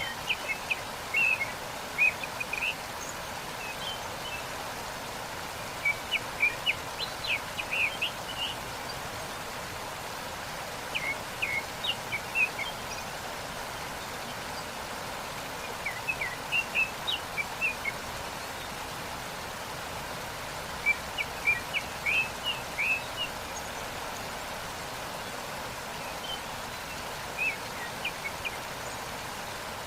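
Steady rushing of a waterfall, with short bursts of high bird chirping recurring about every five seconds.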